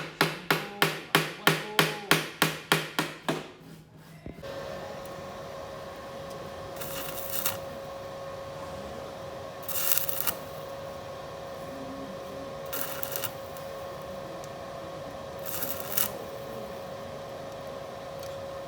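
Hammer strikes on the Vespa's rusted sheet-steel floor panel, about three a second, stopping about four seconds in. Then a steady machine hum with a thin tone, broken four times by short hissing bursts.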